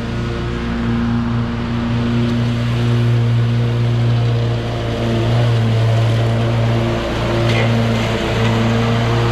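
Mini skid steer's engine running steadily under load, its pitch wavering slightly.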